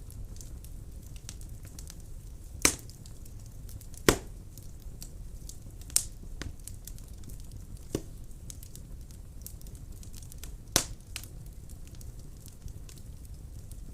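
Burning wood in a fireplace crackling: a steady low rumble of flames with many faint ticks and five sharp pops spread through, the loudest about a third of the way in.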